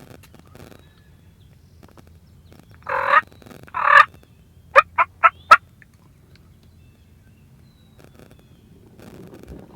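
Wild turkey gobbler at very close range: two loud gobbles about a second apart, followed by four short, sharp notes in quick succession.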